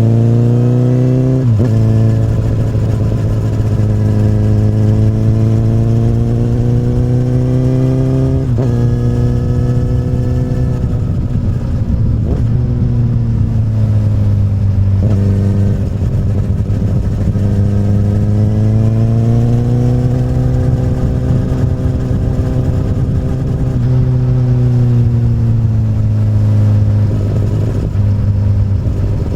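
Honda CBR1000RR's inline-four engine through an Akrapovic carbon slip-on exhaust, under way. The note climbs steadily and drops sharply at each upshift, about four times in the first half. Then it rises and falls smoothly with the throttle.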